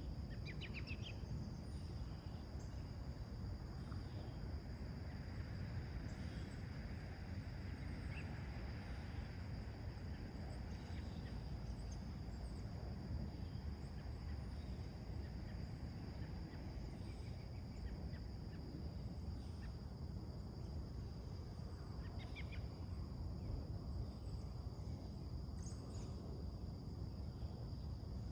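Scattered short bird chirps, a few seconds apart, over a steady high insect drone and a low, even background rumble.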